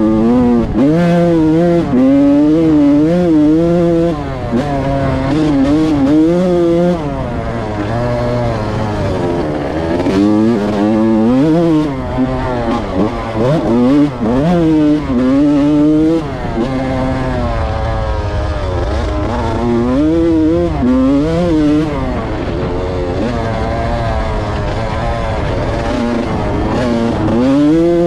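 Yamaha YZ125's single-cylinder two-stroke engine revving up and down over and over under the rider's throttle, its pitch rising and falling with short drops between pulls.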